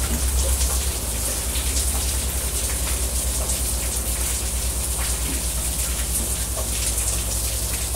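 Steady rain falling, an even hiss of drops with a low steady hum underneath.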